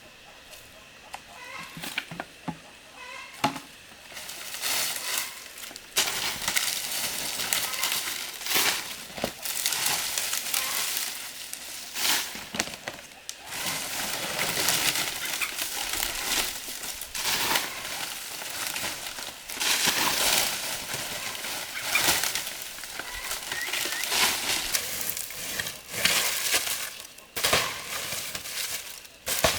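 Poultry chicks peeping faintly, followed from about four seconds in by a loud, continuous rustling and crackling noise.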